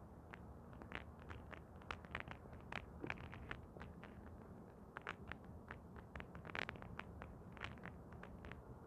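Faint, irregular clicks and taps, several a second, over a low steady hum.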